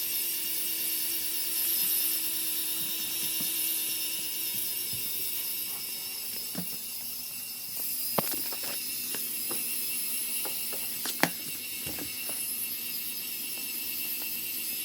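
Lego Technic tractor's small electric motors whining steadily through its gear train as it pulls the weighted sled, with a few sharp clicks along the way.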